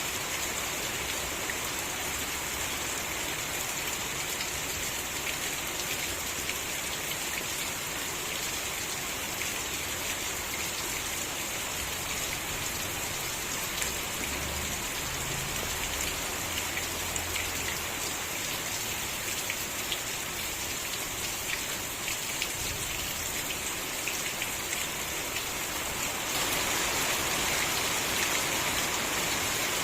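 Steady rain falling, with individual drops ticking through it. The rain grows a little louder near the end.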